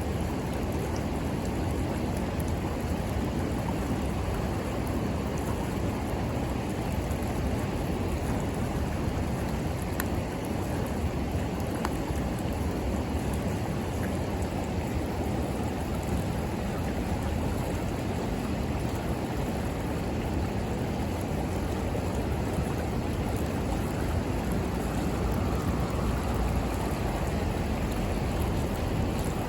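A river flowing steadily, with a campfire giving a few faint crackles.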